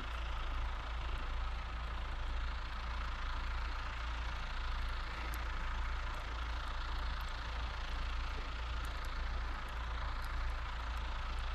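Farm tractor engines running steadily in the distance, a constant low rumble with no change in pitch.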